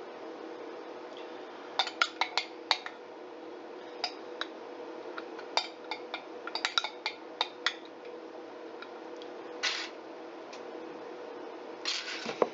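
Kitchenware clinking and knocking in scattered clusters of sharp clicks, with a short scrape about ten seconds in, over a steady low hum.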